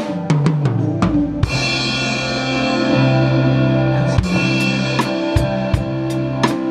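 Drum kit played along to a recorded worship-song backing track: a quick run of drum hits, then a cymbal crash about a second and a half in that rings on, with the beat picking up again near the middle.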